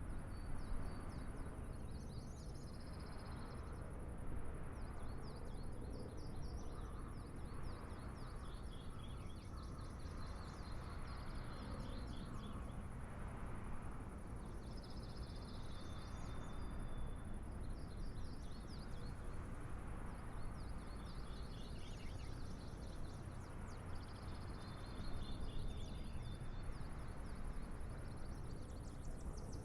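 Outdoor ambience: bursts of rapid chirping trills every second or two over a steady high hiss and a low rumble.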